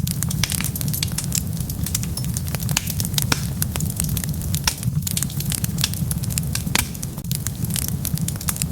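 Wood fire burning with constant sharp, irregular crackles and pops over a steady low rumble of the flames.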